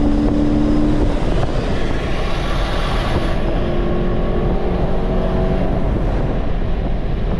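Hyundai Genesis 5.0 V8 engine at high revs during a hard acceleration run, with heavy wind and road rush. About a second in the engine note drops away, the rush swells and then fades, and a lower steady engine note follows as the car lets off.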